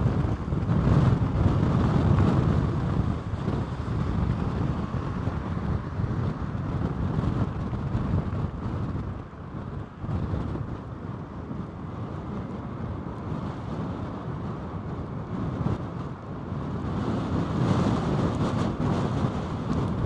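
Strong gale wind buffeting the microphone, a rumbling noise that swells and eases in gusts, loudest at the start and again near the end.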